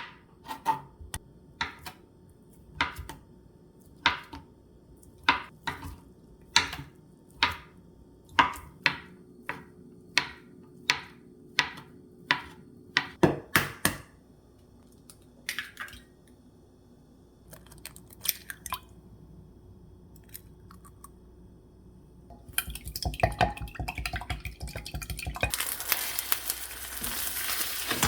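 Kitchen utensils knocking sharply on kitchenware, about once a second at first and then more sparsely. A busier clatter follows, and a steady hiss sets in near the end.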